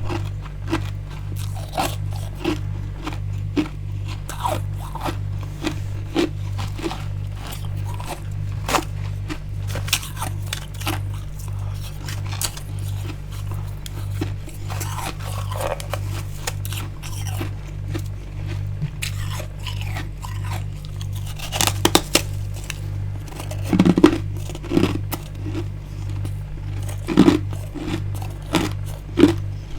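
Crunching and chewing of frosty freezer ice, close to the microphone: many small crisp crunches, with a few louder bites about two-thirds of the way in and near the end. A low hum pulsing about twice a second runs underneath.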